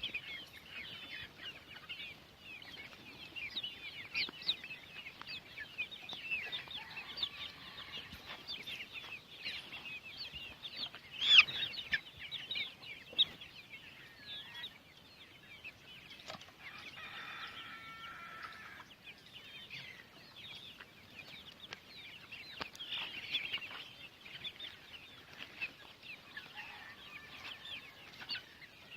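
A flock of 65-day-old Golden Misri chickens calling continuously, many short high calls overlapping, with one louder call about eleven seconds in.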